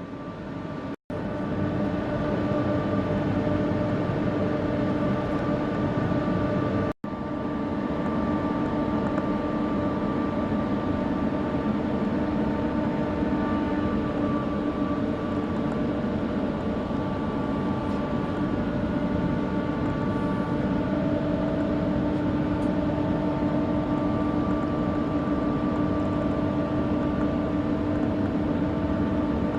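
Scania R500 heavy truck running steadily, with several steady tones over a dense mechanical noise. The sound breaks off for an instant twice, about one and seven seconds in.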